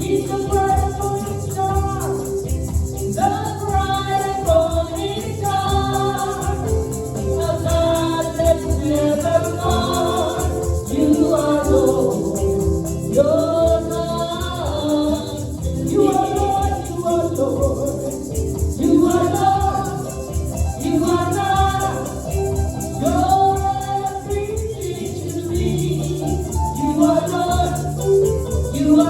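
Gospel song: a voice singing over instrumental backing, with a shaken rattle-type percussion instrument keeping time.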